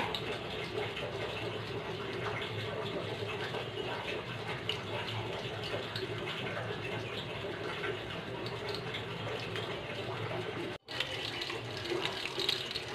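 Lumpia Shanghai (Filipino spring rolls) sizzling steadily as they fry in oil in a frying pan. The sound drops out for an instant a couple of seconds before the end.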